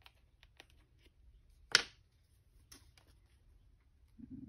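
Light handling clicks and one sharp knock a little under two seconds in, as a clogged fine-tip glue bottle is worked free.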